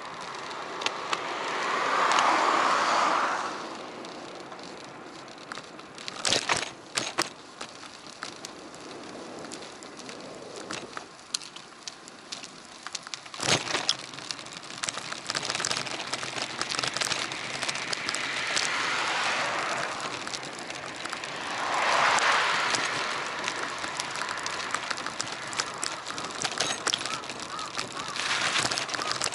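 Ride noise from an action camera on a moving bicycle: a steady crackling rush of wind and tyres on the road, with sharp knocks twice from bumps. Four louder swells of two or three seconds each rise and fade over it.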